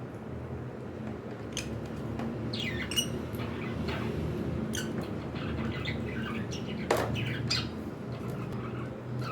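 Pet cockatiels chirping and squawking in short, scattered calls, one sharper call about seven seconds in, over a low steady hum.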